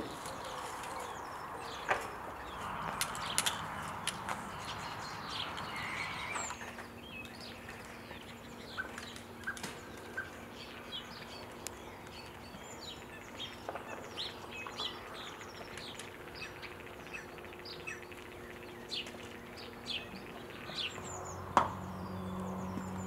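Small birds chirping and singing all around in short high calls. A few sharp knocks stand out, the loudest just before the end. A low steady hum comes in near the end.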